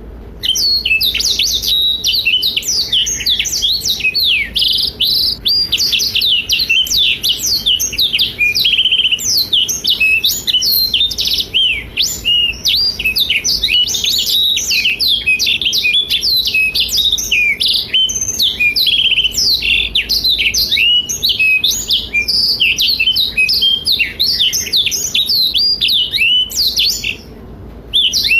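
Black-throated canary (blackthroat) singing in full voice: a loud, fast, unbroken run of varied chirps, trills and quick sweeping notes, with a short pause near the end.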